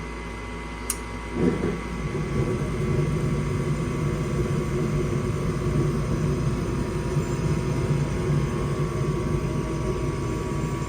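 A relay click, then about a second and a half in the Goodman gas furnace's draft inducer motor starts and runs as a steady drone, the first step of the furnace's heating sequence before ignition. Its hum carries a noise that the technician takes for worn inducer fan bearings.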